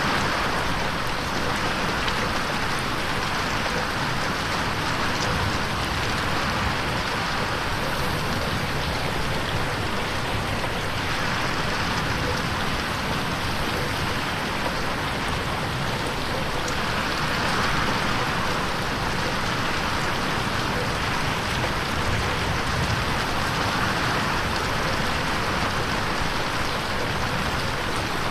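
Steady rain pattering on a window pane, an even dense patter that swells and eases every few seconds as it pans around the listener in 8D.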